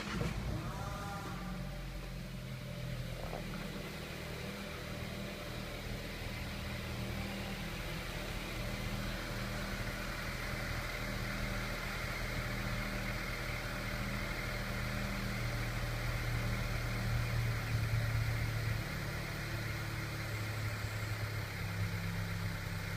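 Volkswagen Golf Mk7's petrol engine cranking and starting from cold after two days parked, catching within about a second and settling into a steady cold fast idle. The owner could detect nothing abnormal in the noise.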